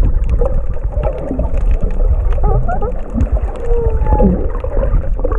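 Underwater recording of an unidentified 'mystery sound': many short squeaky chirps and a few longer whistle-like tones, over a constant low rumble of water.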